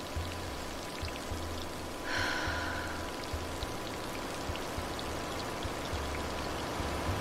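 Steady outdoor water sound of running water and light rain, with scattered small drips and a brief hiss about two seconds in.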